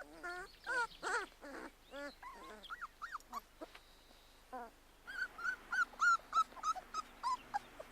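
Three-week-old Labrador puppies whimpering and squealing: a string of short, bending cries, then from about five seconds in a quicker run of high-pitched squeaks.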